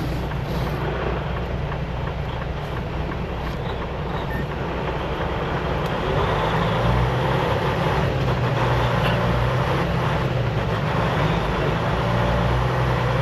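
Semi-truck diesel engine running steadily, getting louder about six seconds in as the truck moves off under power.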